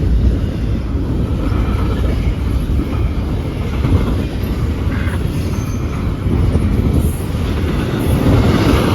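CN freight train rolling past, a loud, steady rumble of cars on the rails.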